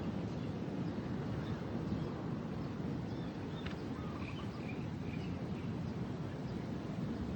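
Steady beach ambience of wind and surf noise, with a few faint bird chirps about three to five seconds in.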